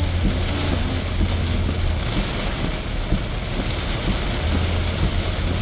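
Heavy rain pelting a car's roof and windshield at highway speed, a steady hiss over the low drone of the car in the cabin.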